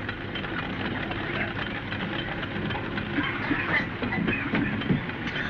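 A steady, dense clattering hiss made of many rapid small clicks, like machinery running.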